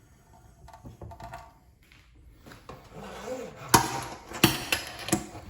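Handling noise: a few sharp knocks and clatters of hard objects being moved about, bunched together in the last two seconds.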